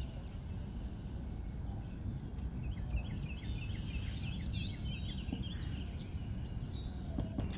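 Small birds chirping in quick repeated calls over a steady low background hum. The chirps begin about two and a half seconds in, with higher, falling notes near the end.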